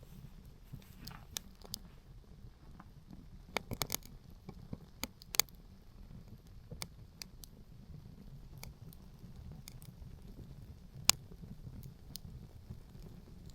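Wood fire crackling: scattered sharp pops and snaps, the loudest about five seconds in and again near eleven seconds, over a low steady rumble of wind.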